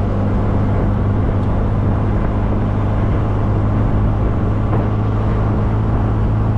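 MG Midget sports car's engine running at a steady cruise, with a constant low hum. Wind and road noise wash through the open-top car.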